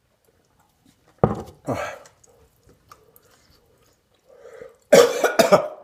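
A man coughing hard while eating: two sharp coughs about a second in, then a louder run of coughs near the end.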